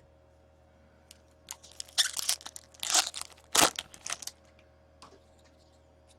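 Foil wrapper of a hockey trading-card pack being torn and crinkled by hand: a cluster of crackly rustles between about one and a half and four seconds in.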